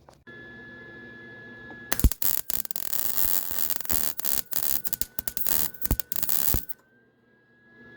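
Wire-feed (MIG) welder arc crackling and sputtering for about four and a half seconds, starting about two seconds in, with brief stutters. It is set against a steady low hum with a thin high whine.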